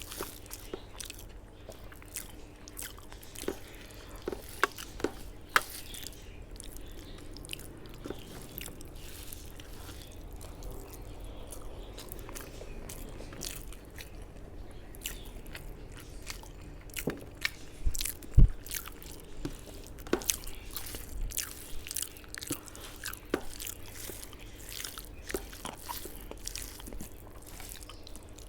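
Close-up eating sounds of a person chewing a mouthful of rice and spicy chicken curry: repeated wet mouth clicks and smacks, with a sharper knock about 18 seconds in.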